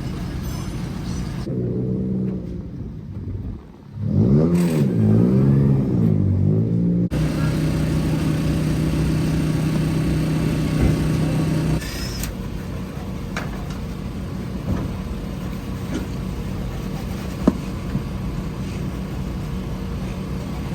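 Subaru Impreza 2.5RS rally car's 2.5-litre flat-four engine revving hard, the revs rising and falling several times, then running at a steadier pitch, with continuous road noise.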